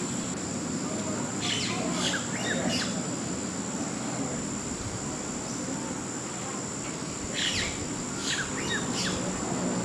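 Small birds chirping: a few quick high chirps about a second and a half in, and another run about seven seconds in, over a constant thin high-pitched whine and low background murmur.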